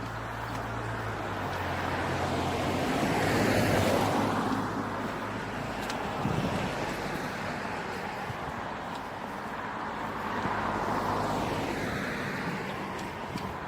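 Cars passing on a road, two of them, the first loudest about four seconds in and the second about eleven seconds in, over a low engine hum that fades after about three seconds.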